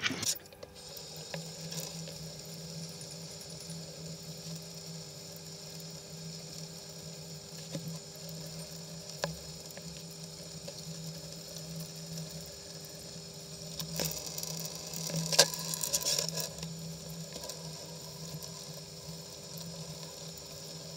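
Thin stream of tap water splashing into a stainless steel sink while small metal reel parts are scrubbed under it with a toothbrush, rinsing off paint stripper; the scrubbing and splashing get louder about two-thirds of the way through. A steady low hum runs underneath.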